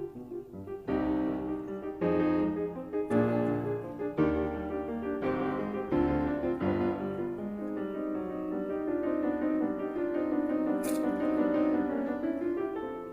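Background piano music: chords struck about once a second, then longer held chords.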